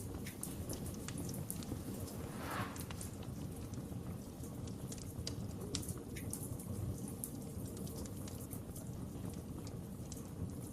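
Wood fire burning in a fireplace: irregular crackles and small pops over a low steady rumble of the flames, with a short hiss about two and a half seconds in.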